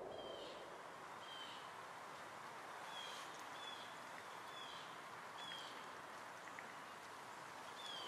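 Faint bird calls: about seven short, falling chirps at irregular intervals over a soft steady hiss of forest ambience.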